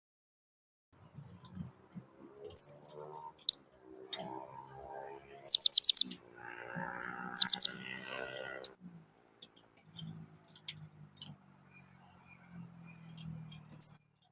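Blue-crowned hanging parrots (serindit) calling: sharp, very high chirps, most of them single and scattered, with two quick runs of four or five chirps near the middle. A faint low jumble of sound runs beneath the middle stretch.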